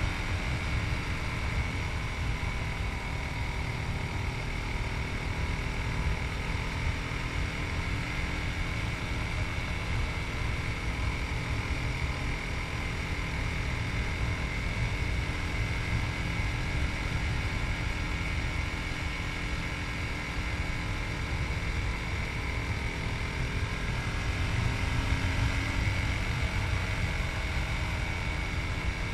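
Yamaha MT-03's 660 cc single-cylinder engine running steadily as the motorcycle rides, its pitch drifting gently up and down, over a heavy rumble of wind on the microphone.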